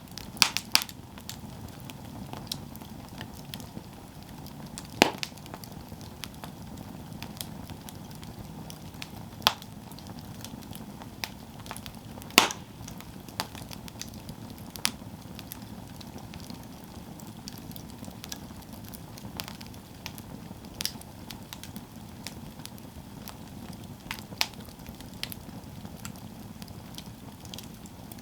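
Campfire burning with a steady low hiss and irregular wood crackles and pops, the sharpest snaps about five and twelve seconds in.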